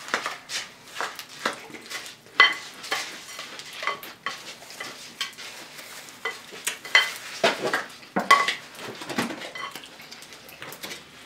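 A spoon clinking and scraping in a bowl of cereal and milk as it is eaten, with irregular sharp clinks about one or two a second, some ringing briefly.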